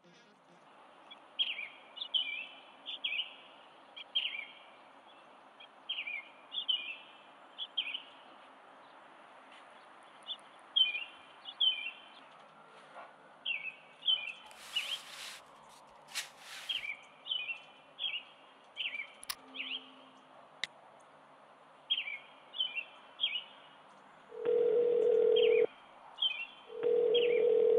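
Small birds chirping in short repeated phrases over a faint outdoor hiss, with two brief hissing sweeps around the middle. Near the end a telephone ringback tone sounds twice, a steady low beep about a second long each time, heard as if through the handset while the call rings out.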